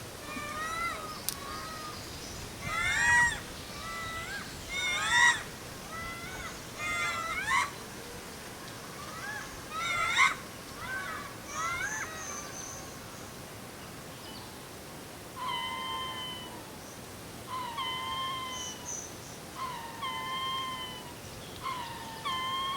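Ring-tailed lemur troop howling: several animals give overlapping, wavering calls in the first half, then one voice repeats a level call about every two seconds. The howls are territorial, telling neighbouring troops that this is their ground.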